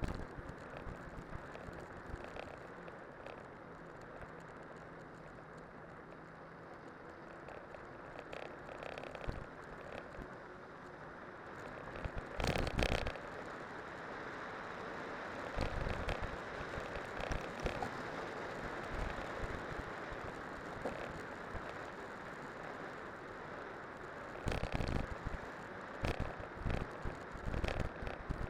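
Cyclocross bike on studded spike tyres rolling downhill over a winter road: a steady hiss of tyres on the surface, with rattling jolts from bumps about twelve seconds in, around sixteen seconds and repeatedly near the end.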